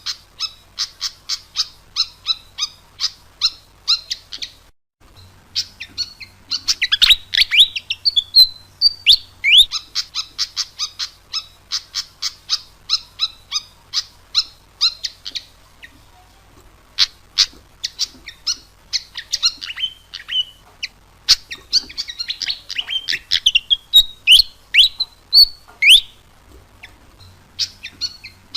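Sikatan kipas (fantail flycatcher) in full, vigorous song: fast runs of sharp high chips, about five a second, broken by quick downward-sliding whistles, repeating phrase after phrase. A faint low hum sits underneath.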